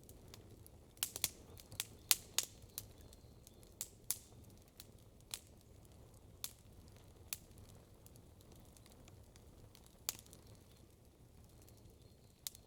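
Wood campfire crackling: irregular sharp pops and snaps, several in quick succession early on and then sparser single pops, over a faint low steady rumble.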